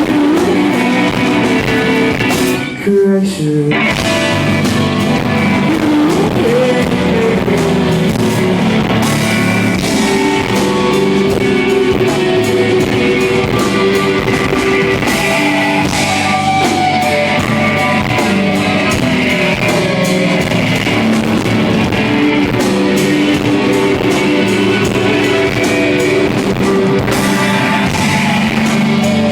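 Live rock band playing loud, with electric guitars, drums and singing, the sound distorted by a handheld recording device; a short break about three seconds in before the band comes back in.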